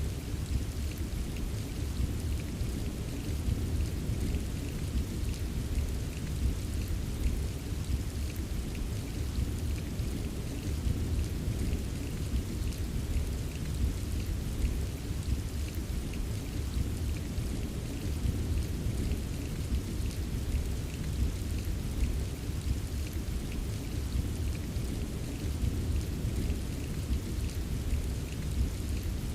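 Recorded rain ambience: a steady rush of rain with a constant low rumble underneath and faint scattered drop taps, unchanging throughout.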